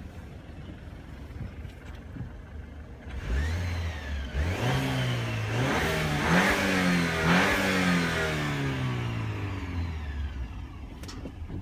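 Car engine revved up about three seconds in, rising and falling a few times before dropping back toward idle. A whistle rises and falls with the revs, which the owner suspects is the turbocharger.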